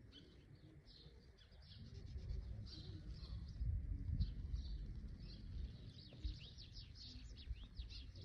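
Small birds chirping in quick, repeated high calls, growing busier near the end. Under them, a low rumble rises about two seconds in and fades by about six seconds.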